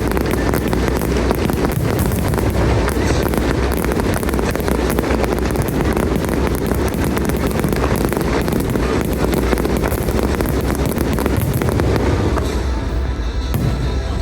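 Aerial fireworks bursting and crackling in a dense, continuous barrage over a low rumble, with music playing underneath.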